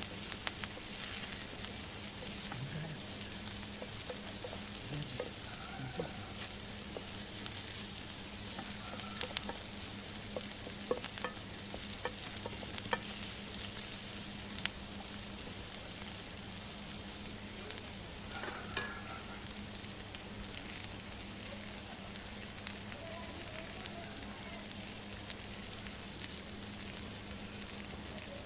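Diced onions sizzling in a nonstick grill pan over a wood fire, stirred with a wooden spatula. A steady sizzle with a few sharp clicks scattered through the middle.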